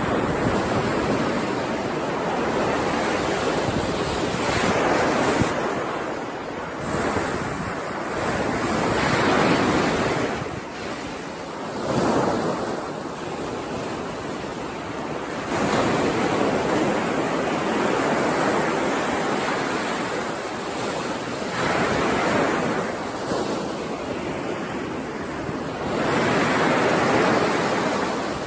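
Sea waves surging and washing in, swelling and fading every few seconds.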